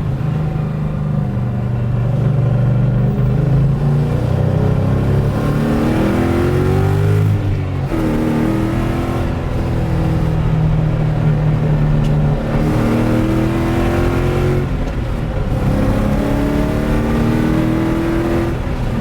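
Car engine accelerating through the gears. Its pitch climbs under load and drops back at each upshift, several times.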